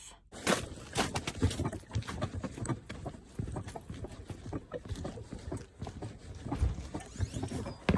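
Footsteps with irregular knocks and rustling, several a second, as a heavy bagged load of bottles and cans is carried to a customer's door.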